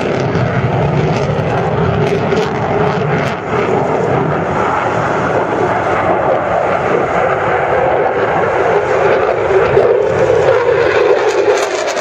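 Loud jet noise from a Eurofighter Typhoon's twin EJ200 turbofans as the fighter flies a display pass, swelling about ten seconds in, then its low rumble falling away near the end.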